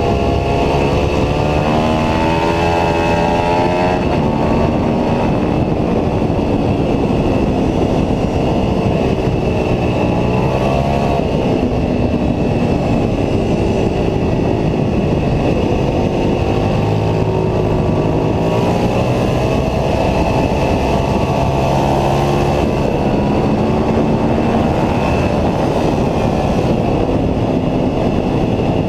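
Ducati 749S's L-twin engine under hard acceleration on track, its pitch climbing through the revs and dropping back at each gear change, again and again.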